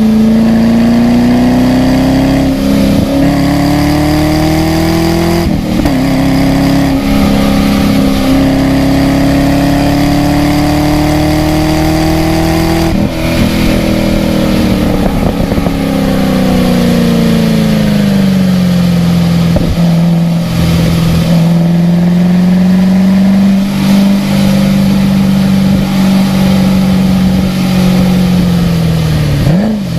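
Car engine pulling under load on a wet-track lap: revs climb, an upshift about five seconds in, and revs climb again. From about thirteen seconds in the revs fall off over several seconds as the car slows, then hold steady, with a short dip near the end.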